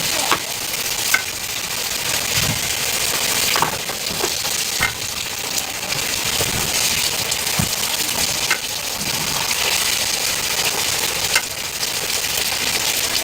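Food sizzling as it fries: a steady hiss, with a few sharp clicks spread through it.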